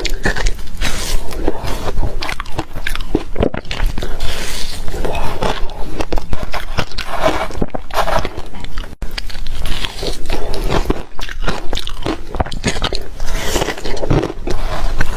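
Close-up biting and chewing of shaved refrigerator ice: dense, loud crunching and cracking, broken by a brief pause about nine seconds in.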